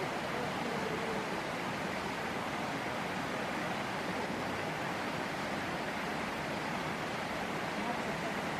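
Steady rushing of water from a waterfall and its stream, an even noise that does not change.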